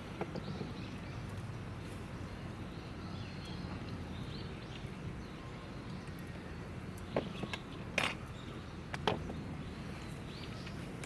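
Wood campfire burning, with three sharp pops at about seven, eight and nine seconds in.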